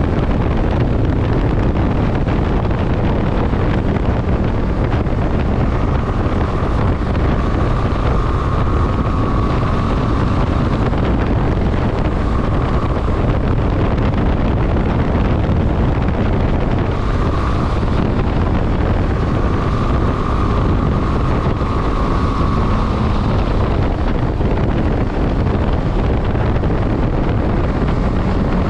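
Steady wind rush buffeting a motorcycle rider's microphone at speed, with the motorcycle's engine and road noise running underneath and a faint whine coming and going.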